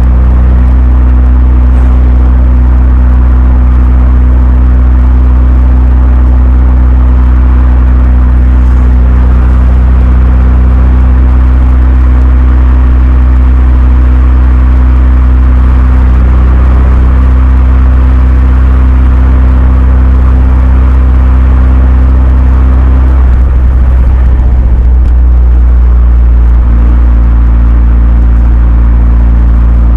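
Renault Mégane 2 RS's turbocharged four-cylinder engine running at steady revs through a Milltek cat-back exhaust: a loud, constant low drone. The drone wavers briefly about two-thirds of the way through, then settles again.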